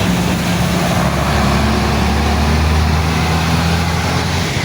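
A large road vehicle's engine runs close by as a low, steady drone that swells about a second in and eases near the end, over continuous road noise.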